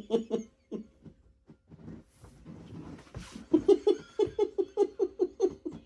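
A man laughing in quick repeated 'ha' pulses, about five a second: a short burst at the start, breathy sounds in the middle, then a longer, louder run of laughter over the last two seconds or so.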